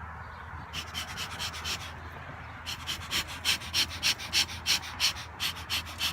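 Bee smoker bellows pumped fast, giving evenly spaced puffs of air, about three a second. A short run comes about a second in, and a steadier run starts near the middle.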